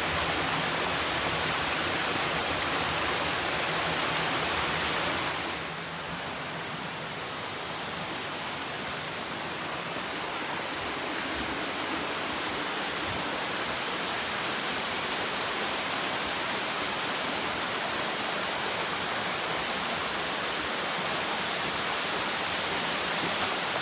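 Steady rush of a mountain brook and its cascading waterfalls. The rush drops a little about five seconds in, then slowly grows louder again.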